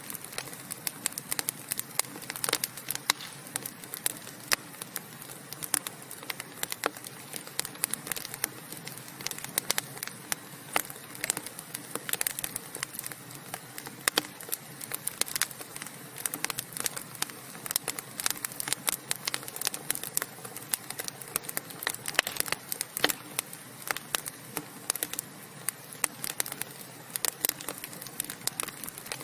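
Wood fire burning, with a steady hiss and many sharp, irregular pops and crackles from the burning logs.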